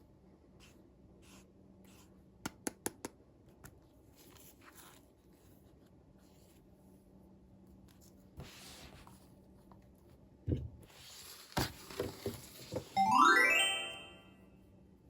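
Quiet clicks, taps and rustling from small objects being handled, with a quick run of four clicks early and a few knocks later. Near the end a loud rising electronic tone sweeps steeply upward for about a second and a half.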